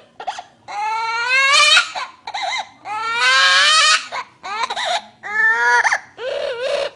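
Parrot crying like a sobbing child: a run of five or six loud, drawn-out wails with short breaks, the two longest rising in pitch.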